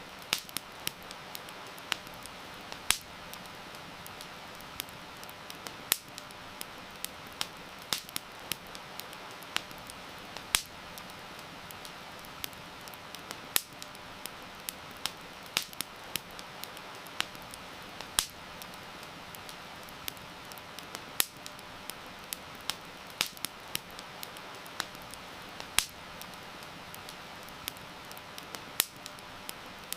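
Wood campfire crackling, with irregular sharp pops and snaps several times a second over a steady hiss of heavy rain.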